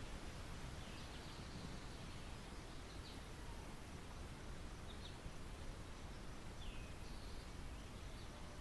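Faint, steady outdoor ambience hiss with about five short, high bird chirps spaced a second or two apart.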